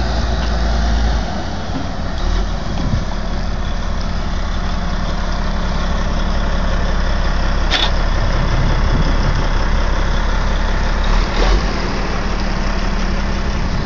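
Large truck engine idling steadily, with one sharp click about eight seconds in.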